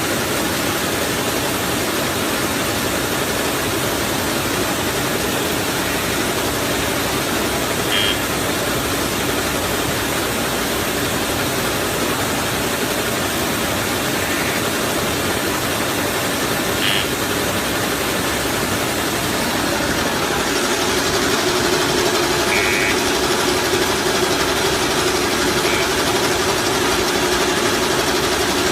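Automatic plastic-straw packaging machine running with a steady mechanical noise, broken by a few brief high squeaks at irregular intervals. About two-thirds of the way through, a steady hum joins and it gets slightly louder.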